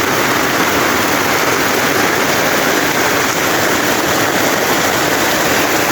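Heavy rain falling, with rainwater running, as one steady loud hiss.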